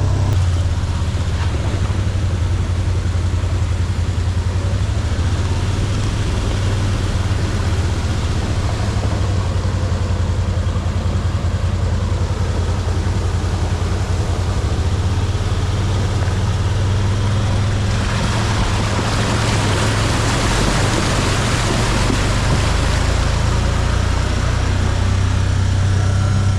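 Can-Am HD8 side-by-side UTV engine running at a steady speed while driving, a constant low hum. A louder hiss joins about 18 seconds in.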